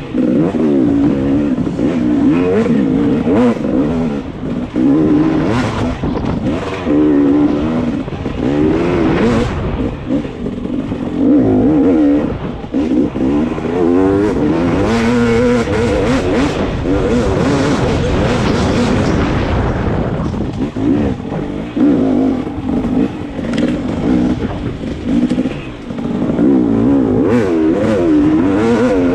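Dirt bike engine revving up and down over and over as the rider accelerates, shifts and backs off around a sand track.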